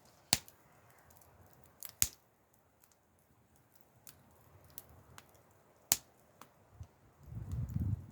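Wood fire crackling: a few sharp, irregular pops from burning wood over a faint steady hiss, with a low rumble near the end.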